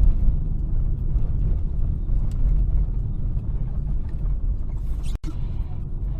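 Low, steady rumble of a car driving on the road, recorded by a dash cam. The sound drops out for an instant about five seconds in, then the rumble carries on.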